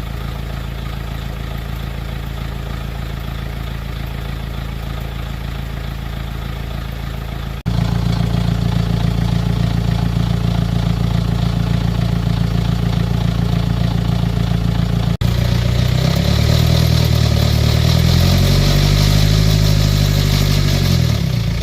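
BMW X3 engine idling steadily after a timing chain replacement, with no chain rattle meant to be left. Near the end it is revved up once and falls back to idle.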